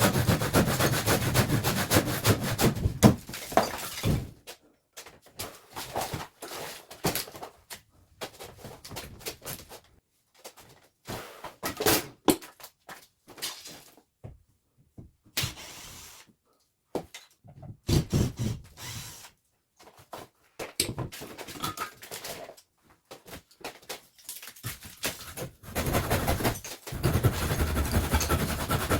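Irregular knocking, cracking and clattering of hand-tool demolition work, in short separate stretches.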